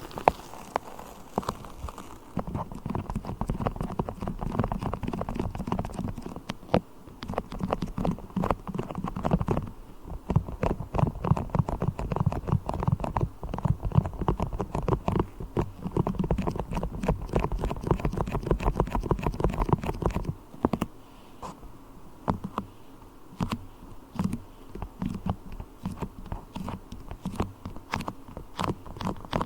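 Beeswax being worked with the fingers: a rapid, irregular stream of sticky taps and crackles, over a low rumble that stops about two-thirds of the way through.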